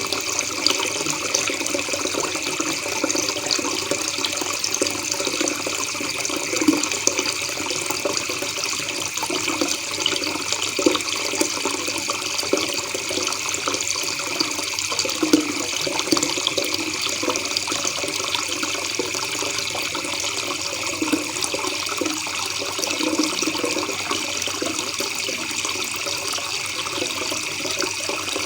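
River water babbling and gurgling steadily.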